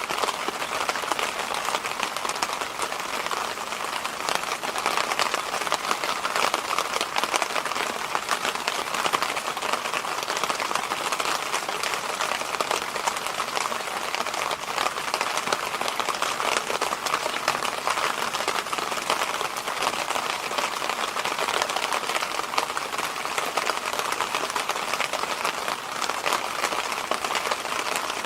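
Electric fan running steadily: an even rush of air with little low hum.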